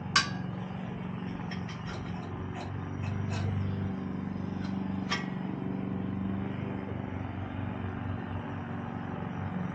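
A few sharp metallic clicks and taps as carburetor parts are worked off their mounting studs by hand, over a steady low hum.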